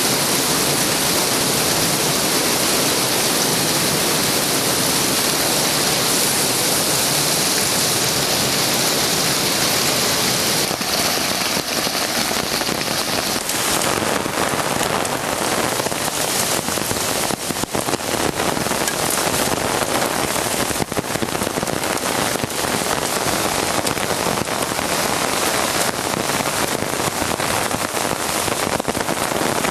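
Heavy rain pouring down in a thunderstorm, a loud steady hiss. From about eleven seconds in it breaks into denser, sharper pattering of separate impacts.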